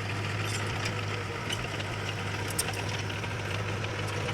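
Heavy earthmoving machine's diesel engine running steadily with a low, even hum, and a few sharp clicks and rattles over it.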